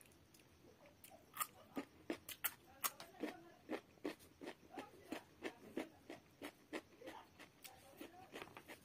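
Close-miked eating sounds of rice and fish curry: wet chewing and mouth smacks, with the food squished by hand on the plate. They come as a quick run of sharp clicks, two or three a second, starting about a second in.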